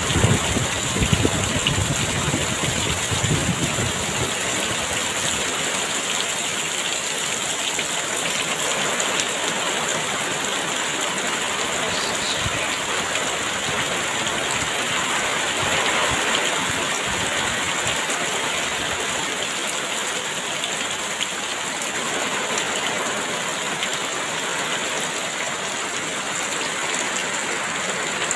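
Heavy rain pouring steadily, with gusts of wind buffeting in the first few seconds and a brief swell of wind about halfway through.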